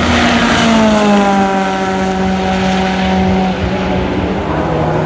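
Race car passing at speed, its engine note falling in pitch as it goes by and then holding steady for a few seconds.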